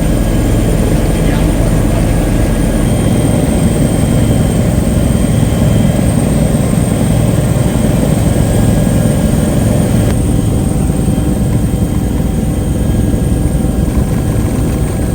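Helicopter running steadily: a loud, even rotor and engine noise with a faint high whine.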